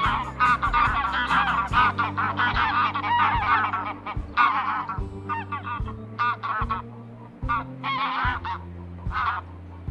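A flock of farm fowl calling: many overlapping, wavering honking cries, dense for the first few seconds and then in shorter bursts with gaps. Under them runs background music with a steady low bass line.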